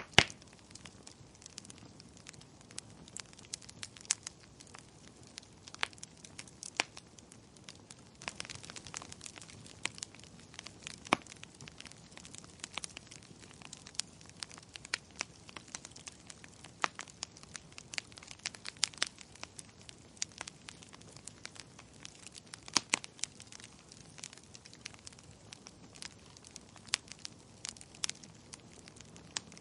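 Wood fire crackling in a fireplace: irregular sharp pops and snaps over a faint steady hiss, the loudest pop right at the start.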